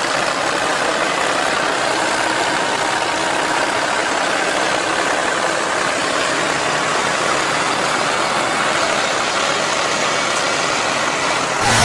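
A vehicle engine running steadily, heard as an even rushing noise. Just before the end it cuts suddenly to a louder, different sound.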